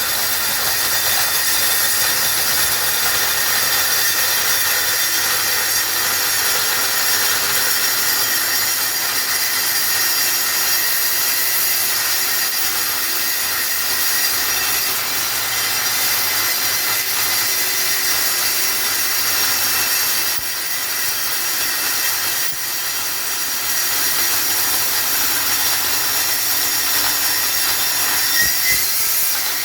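Evolution metal-cutting circular saw running under load, its blade cutting lengthwise through half-inch-thick steel rectangular tubing: a steady, loud, high-pitched screech of blade on steel, easing off briefly about two-thirds of the way through.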